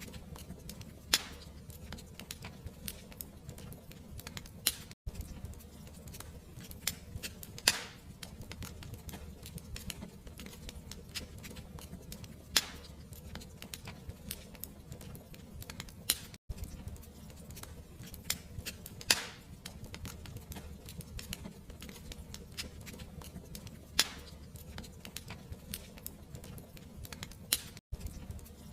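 Fireplace fire crackling: a steady low rumble under constant small crackles, with a sharper pop every few seconds.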